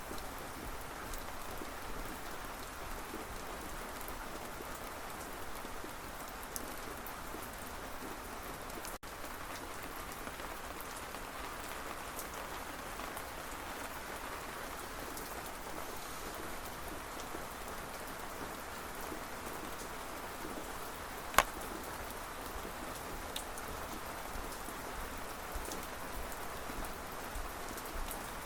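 Steady rain falling, an even hiss with scattered small drop ticks. One sharp click stands out about three-quarters of the way through, and the sound drops out for an instant about a third of the way in.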